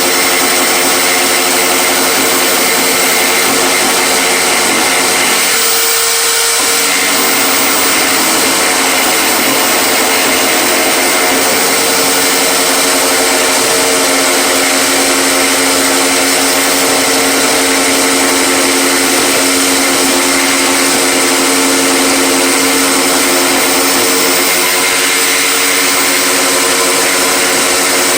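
Electric power tool motor running steadily, its tone shifting briefly about six seconds in.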